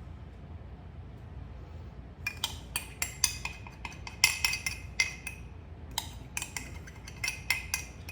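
A metal fork clinking against a mixing bowl in quick, irregular strokes, starting about two seconds in, as melted butter is stirred into graham cracker crumbs and rolled oats for a crust.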